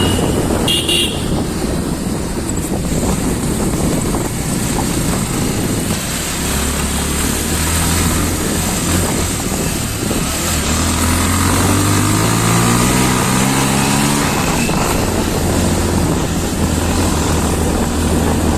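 Motorcycle engine running on the move, with a steady rush of road and wind noise. About eleven seconds in, the engine pitch climbs for a few seconds as it accelerates, then settles.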